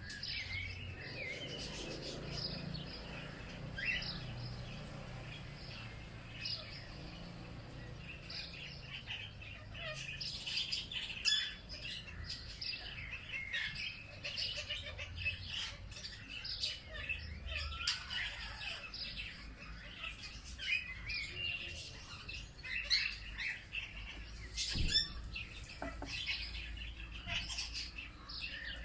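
A chorus of many small birds chirping and singing continuously, calls overlapping, over a low rumble, with a few sharp clicks, the loudest about three-quarters of the way through.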